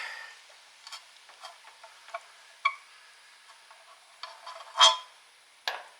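Scattered sharp metallic clicks and ticks of a hand screwdriver working stubborn flathead screws out of an old electric motor's housing, with one louder clack just before five seconds in.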